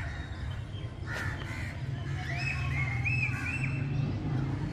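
An animal calling in short, repeated cries: a single call about a second in, then a quick run of four calls about halfway through, over a steady low hum.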